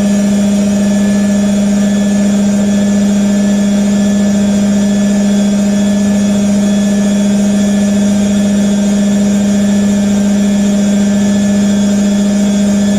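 IKEA RENLIG IWM60 washing machine spinning steadily at 850 rpm, its motor giving a constant loud hum with fainter higher tones above it. There is some roughness from the motor bearings, which the owner is trying to smooth out with oil.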